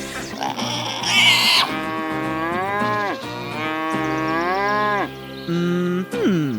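Cattle mooing: two long moos, each rising and then falling in pitch, then a shorter low call and a few quick downward-sliding sounds near the end.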